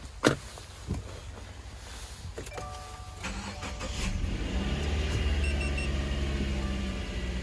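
2016 Subaru Crosstrek's 2.0-litre flat-four boxer engine started from cold. A sharp click comes about a quarter second in, the engine is cranked about three seconds in, and it catches near four seconds and runs on at a steady cold idle.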